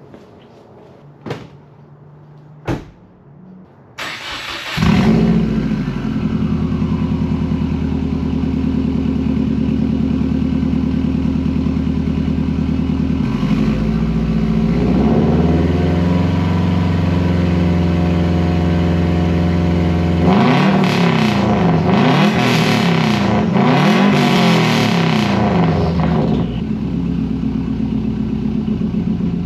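A few clicks, then the 2009 Subaru WRX's turbocharged flat-four starts about four seconds in through its custom 3-inch exhaust and settles into a steady idle. Near the end it is blipped several times, rising and falling in pitch, then drops back to idle.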